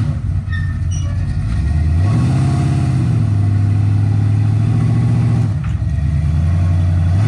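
1987 Chevy C10 pickup's engine running at low revs under load as the truck drives up onto a trailer. The pitch rises briefly about two seconds in, then settles back to a steady low note.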